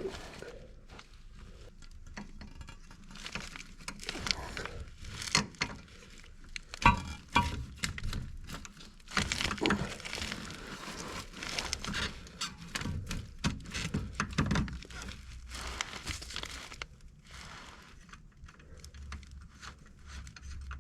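Irregular clicks, knocks and light rattles of tools and parts being handled, with a few sharper knocks about 7 s and 9 to 10 s in.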